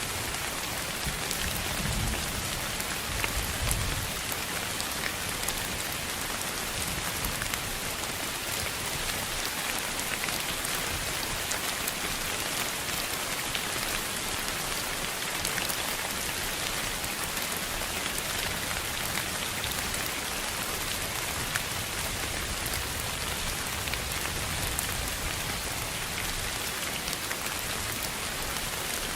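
Steady, even hiss of sleep noise with faint scattered ticks like raindrops, and a brief low rumble about two to four seconds in.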